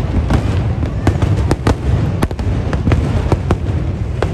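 Fireworks display going off in a dense barrage: rapid, irregular sharp bangs and crackles, several a second, over a continuous low rumble.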